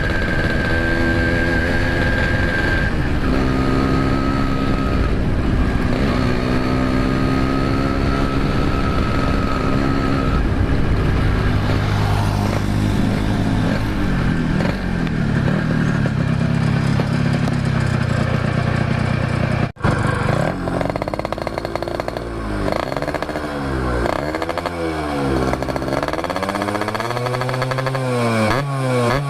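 Yamaha RX-King 135cc two-stroke single running through an RBK aftermarket exhaust. It is ridden and climbs through the gears in steps, breaks off briefly about twenty seconds in, then is revved again and again, its pitch rising and falling with each blip of the throttle.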